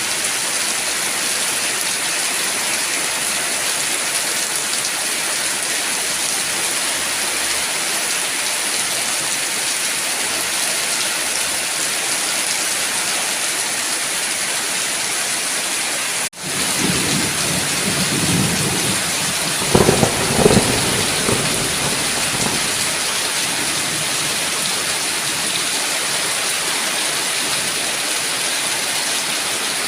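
Steady heavy rain, with a brief split-second gap just past halfway. A low roll of thunder then rumbles up and peaks about two-thirds of the way in before fading back under the rain.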